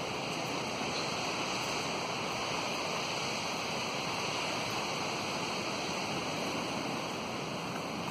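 Steady rushing storm noise outdoors at night, an even hiss with no clear calls or knocks standing out.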